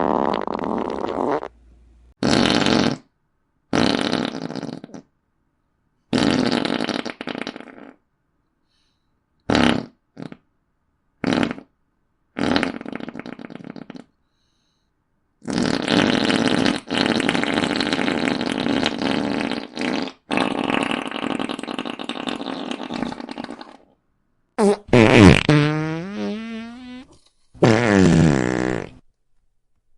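Fart sound effects, about a dozen in a row with short gaps between them. Some are quick pops and some run a second or two; one in the middle lasts about eight seconds, and two near the end waver in pitch.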